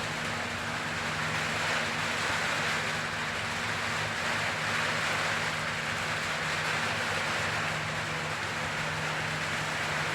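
Steady rain falling, an even hiss that does not let up, with a low steady hum underneath.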